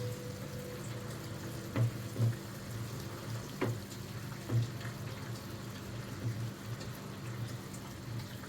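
Food simmering in a pan: soft bubbling plops, about one a second, over a low steady hum, with a few faint ticks.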